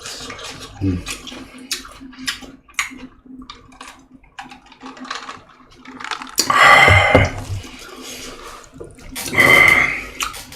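Close-miked eating sounds: a run of wet chewing clicks and lip smacks, then two loud slurps about a second long, one just past six seconds in and one about nine seconds in.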